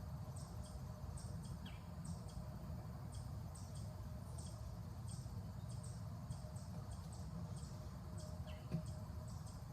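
Small birds chirping, short high calls repeating irregularly a few times a second, over a steady low outdoor rumble.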